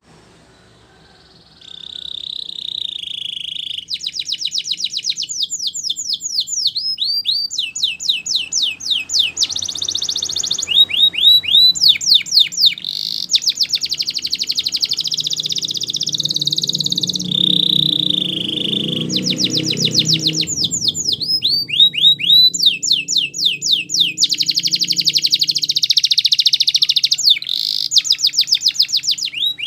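Yellow-vented bulbul (trucukan) singing: long runs of very fast, rapidly repeated high chattering notes, broken now and then by short steady whistles.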